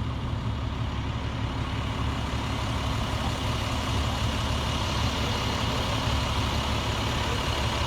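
Septic vacuum pump truck running steadily, its engine and vacuum pump working through a septic tank pump-out. The sound is a constant low rumble with a faint high whine over it.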